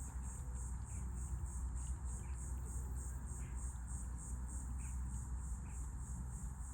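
Insect chorus with an even, high-pitched pulsing about two to three times a second, over a steady low rumble, with a few faint short chirps.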